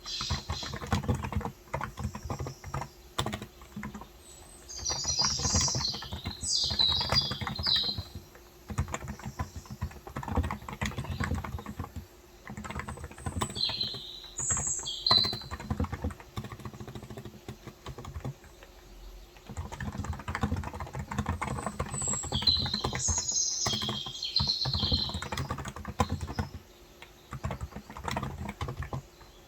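Typing on a Cox Endeavor electrostatic capacitive (non-contact) tenkeyless keyboard with 35 g switches: a stream of keystrokes with a pause of about two seconds just past the middle. Birds chirp outside in three short bouts.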